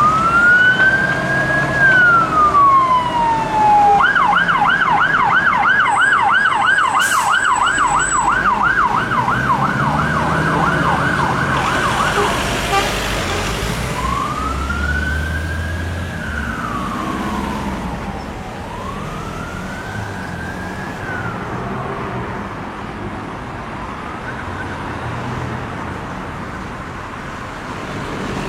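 Emergency vehicle siren: a slow rising-and-falling wail, switching about four seconds in to a rapid yelp of about three sweeps a second, then back to slow wails near the middle, growing fainter toward the end over traffic noise.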